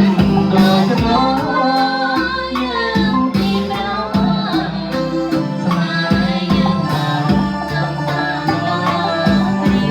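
Live band playing a Khmer song, with singing over a steady drum beat.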